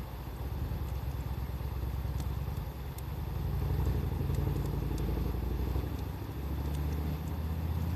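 Bonfire crackling with sparse sharp pops, over a loud low rumble that swells and falls.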